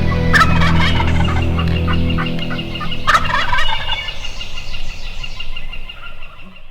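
Wild turkey gobbler gobbling twice, about a second in and again about three seconds in, each gobble trailing off; background music fades out under it.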